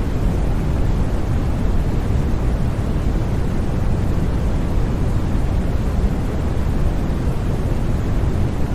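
Continuous white noise for sleep: a steady, even rush with no changes, weighted toward a deep low rumble with a softer hiss above.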